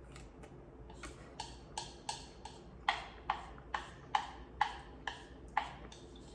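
A regular series of short, light clicks, about two to three a second, faint at first and loudest in the middle.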